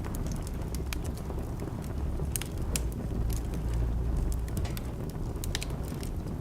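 Wood fire crackling in a fireplace: irregular sharp pops and snaps over a steady low rumble that swells a little in the middle.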